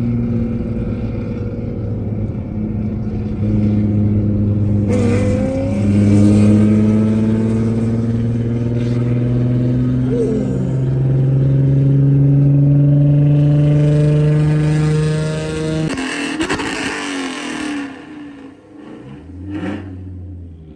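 A car engine pulling hard under acceleration, its note climbing steadily, with a shift about five seconds in. About sixteen seconds in the driver lifts off abruptly and the engine falls to a low drone.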